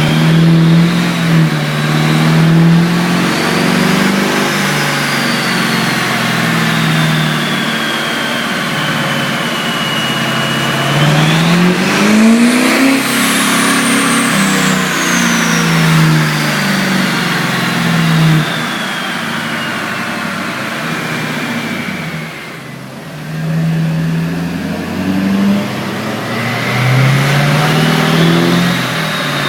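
Twin-turbo Duramax 6.6 L V8 diesel running on a dyno under load, its engine note stepping and gliding up and down. A high turbo whistle rises and falls over it, climbing sharply about twelve seconds in and then falling away.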